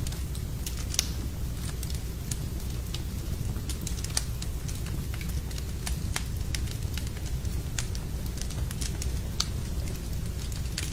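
Wood fire burning in a fireplace: a steady low rumble of the flames with irregular sharp crackles and pops from the burning logs, one louder pop about a second in.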